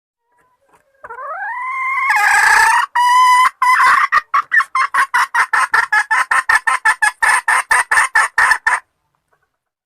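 A junglefowl hen calling: a drawn-out note that rises in pitch about a second in, then a fast run of short clucks, about five a second, that stops abruptly near the end. It is a hen's call of the kind used to draw in males.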